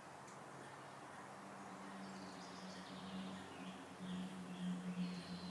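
Hummingbird's wings humming as it hovers at the feeder, a low buzz that starts about two seconds in and comes and goes, with short high chirps over it.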